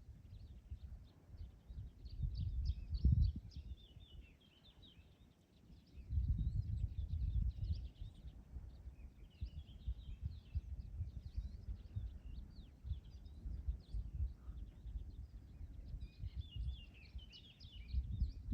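Birds chirping in clusters of short, high twittering notes, three times, over irregular low gusts of wind, the gusts loudest about three seconds in and again from about six to eight seconds.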